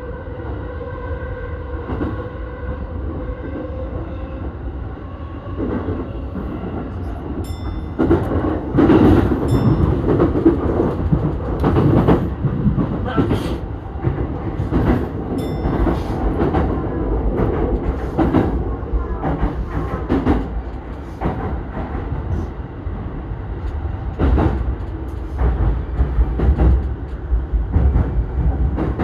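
E233-1000 series electric train running on the line: a steady motor whine of several tones fades out over the first few seconds. Then comes louder rumbling running noise, with the wheels clicking over rail joints and points at irregular intervals.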